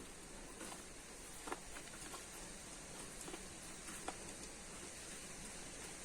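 Faint eating sounds of someone chewing corn: a few scattered soft mouth clicks and smacks over a steady hiss.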